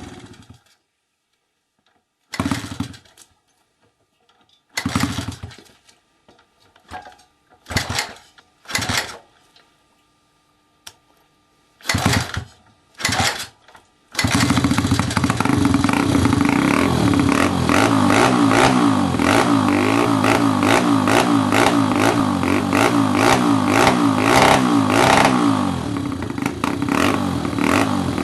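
Motorcycle engine: a run of short bursts of engine sound with near silence between them, then from about halfway it keeps running steadily with an even beat.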